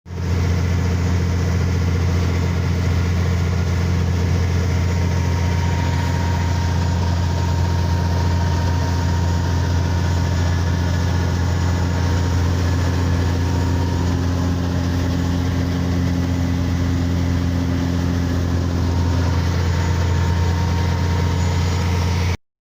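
Motorboat engine running at a steady speed: a constant low drone with a few steady higher tones over it. It cuts off suddenly near the end.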